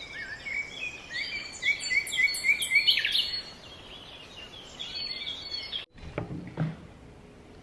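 Birds singing over a steady outdoor hiss, with a quick run of repeated high chirps from about one and a half to three seconds in. The sound cuts off suddenly near six seconds, followed by a couple of soft knocks.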